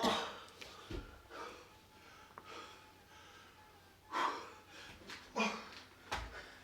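Heavy, wheezing breaths of a person exerting themselves mid-workout: about five loud breaths, with a quieter pause in the middle.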